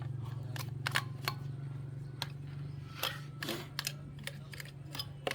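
A steady low hum with a dozen or so short, sharp clicks and knocks scattered over it, the loudest about a second in, about three seconds in and just before the end.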